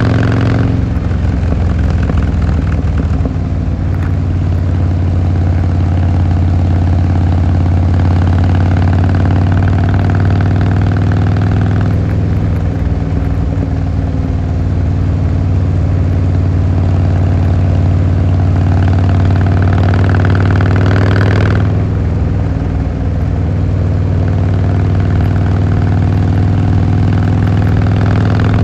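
Harley-Davidson Fat Boy Lo's V-twin engine and exhaust running steadily, the sound dipping briefly just after the start and again about 22 seconds in before picking back up.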